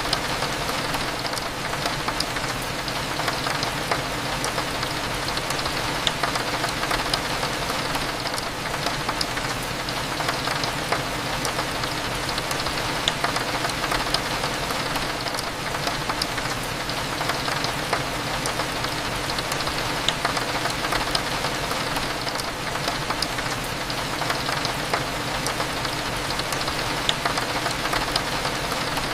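Steady rain falling on a window, with many small drop ticks over an even hiss, and a low steady cafe hum underneath.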